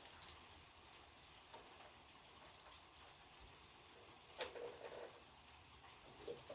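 Near silence broken by a few faint clicks of hand tools. About four and a half seconds in comes one sharper click with a short clatter, and a small knock follows near the end.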